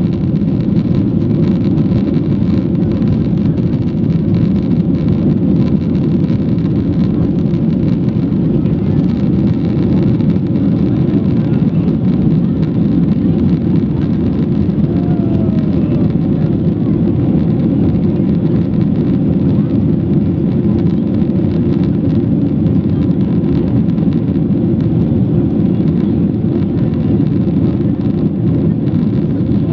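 Steady cabin noise of a Boeing 737-800 in flight: its CFM56 jet engines and the airflow, heard from inside the passenger cabin as an even low rush with faint steady hums, unchanging throughout.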